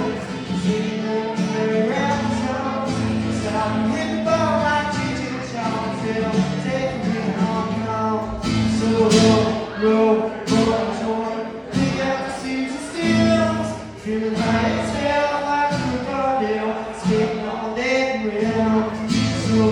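Live acoustic performance: a teenage boy sings over a strummed acoustic guitar in a steady rhythm.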